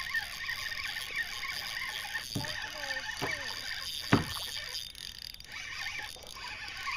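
Birds chirping and calling, with a couple of short falling calls and a single sharp knock a little after four seconds in.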